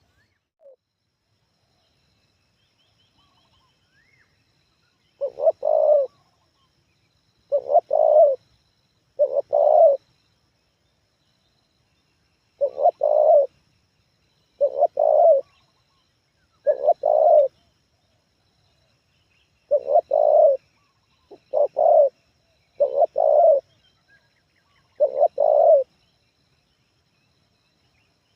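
Spotted dove (tekukur) cooing: about ten short coo phrases, each under a second, repeated every one and a half to three seconds, starting about five seconds in.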